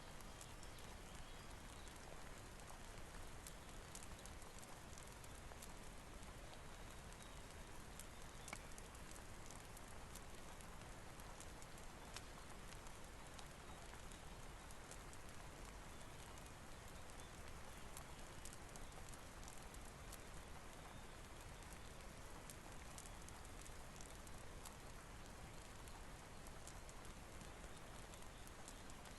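Faint steady rain hiss with many small, scattered crackles and pops from a wood fire.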